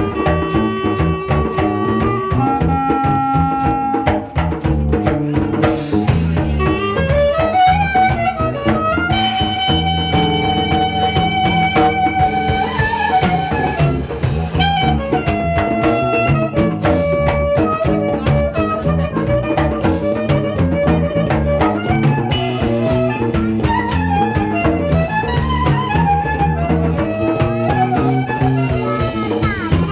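Jazz trio playing live: a lead instrument carries a melody of held and moving notes over walking bass and drum kit with cymbals.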